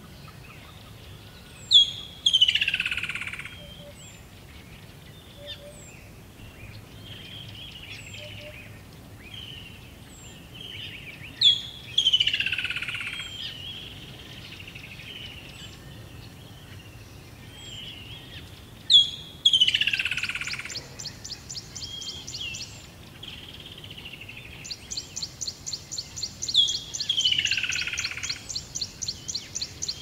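Forest birdsong: a loud song phrase that opens with a sharp high note and slides down in pitch over a second or so, repeated four times about every seven to eight seconds, over softer high chirps and warbles. From about twenty seconds in, a fast, even, high-pitched pulsing joins, breaks off briefly and resumes.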